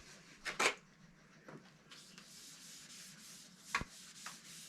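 Wood stain being rubbed onto the teak back of a guitar body: two short wiping strokes about half a second in, then faint steady rubbing. A sharp knock comes a little before the end.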